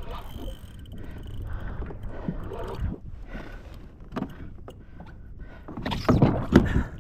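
Water slapping and sloshing around a fishing kayak, with irregular knocks on the hull. There is a louder rush of noise with sharp hits for about a second near the end.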